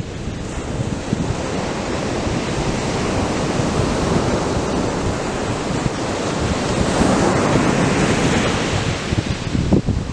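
Atlantic surf breaking on a sandy beach: a continuous wash of waves that swells to a fuller rush in the second half, then eases near the end.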